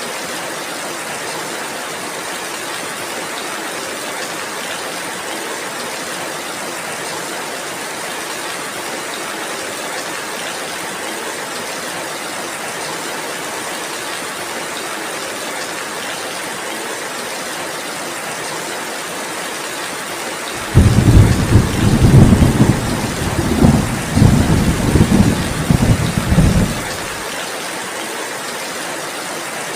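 Steady heavy rain hissing, with a loud roll of thunder about two-thirds of the way through that rumbles low in several surges for about six seconds, then fades back to the rain.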